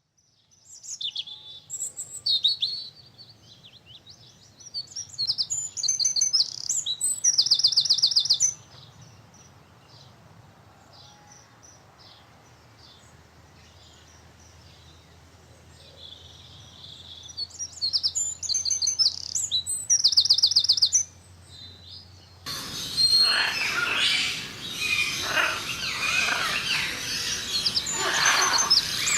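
A songbird singing high, varied phrases, each ending in a fast, loud trill, with pauses between phrases. About three-quarters of the way in, the sound changes abruptly to denser chirping over a noisy background.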